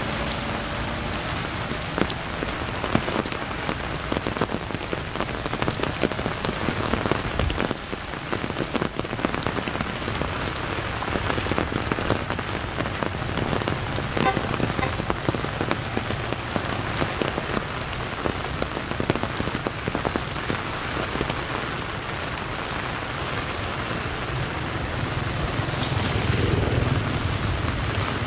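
Steady rain falling on surfaces, with many separate drops pattering close by. A low rumble swells near the end.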